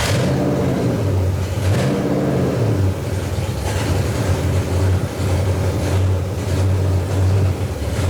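Ford 429 ThunderJet big-block V8 running at a fast idle, its speed swelling and easing slightly a few times; it won't idle down because of a faulty carburetor.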